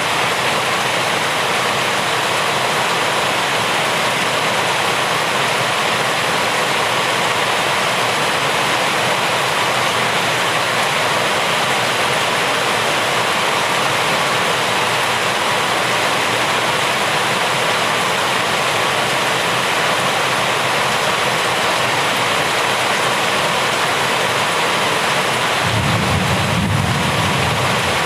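Steady heavy rain falling with a continuous hiss. A low rumble of thunder comes in near the end.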